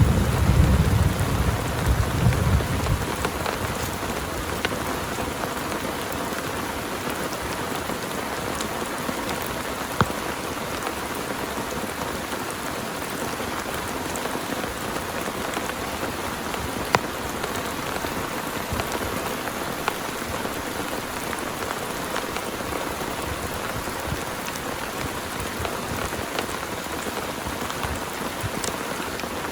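Heavy rain falling steadily, with a low thunder rumble fading out over the first few seconds. A few single louder drops tick out of the rain along the way.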